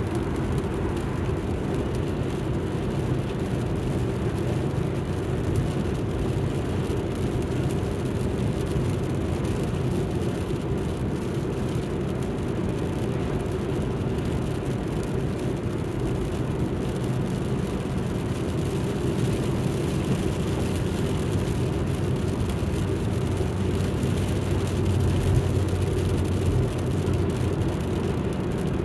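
Alfa Romeo MiTo driving along: a steady mix of engine and tyre noise. A low engine hum grows a little stronger for a few seconds near the end.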